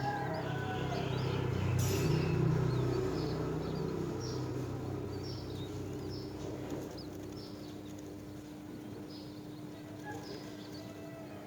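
Small birds chirping: short, high calls repeating about every half second throughout. A low hum under them fades out over the first few seconds.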